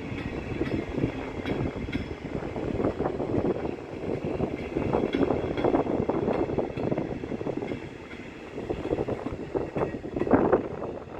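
A train running past on the tracks, with a steady rumble and many short clicks of wheels over the rails.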